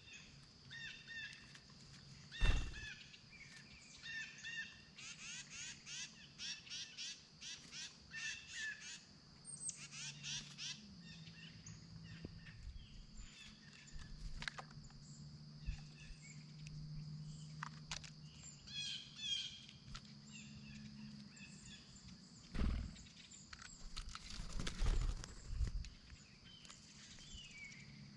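Wild birds calling in series of short, rapid chirps and trills, over a steady high-pitched tone. A few sharp thumps stand out, about two seconds in and twice near the end.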